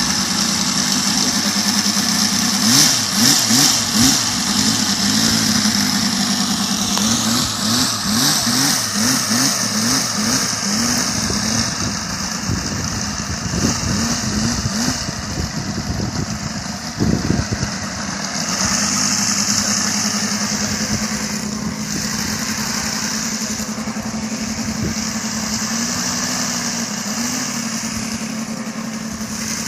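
Five-cylinder radial engine on a model aircraft running smoothly, its pitch rising and falling a little in the first half as the throttle is blipped, then holding steady.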